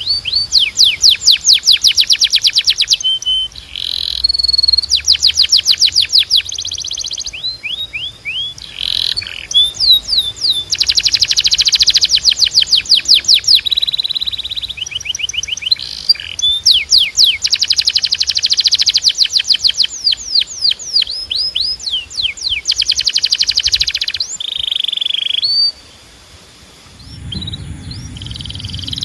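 Domestic canary singing a rapid song of trills and rolls: long runs of fast repeated notes, some in rising or falling sweeps, broken by brief pauses. Near the end the song drops out for a moment and a low rumble comes in under it.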